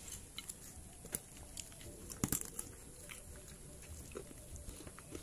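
Close-up eating sounds: chewing and crunching with scattered small clicks, the loudest crunch a little over two seconds in.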